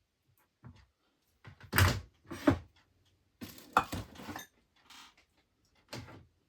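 A run of irregular knocks and clatters, several sharp impacts with short rattling tails, the loudest about two and four seconds in.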